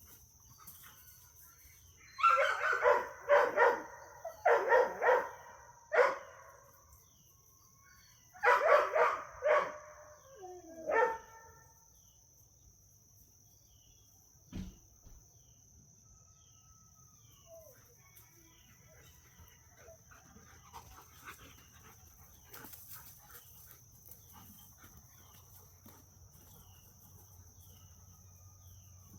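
Dogs barking during play: a run of quick barks about two seconds in, then a second run from about eight and a half to eleven seconds in. The rest is quiet apart from a single sharp click.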